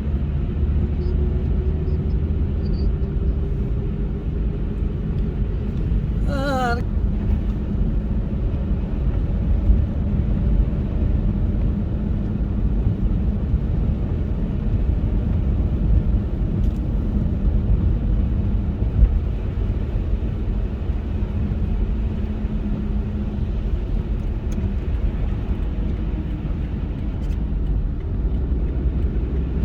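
Car driving at steady speed: a constant low road-and-engine rumble with a faint steady hum. About six seconds in there is a brief, wavering, warbling sound.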